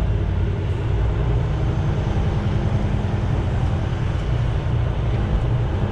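Semi truck's diesel engine running, heard from inside the cab: a steady low rumble.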